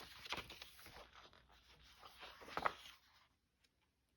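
Paper rustling and sliding as folded sheets of a journal signature are handled, in a series of short scrapes with the loudest about two and a half seconds in.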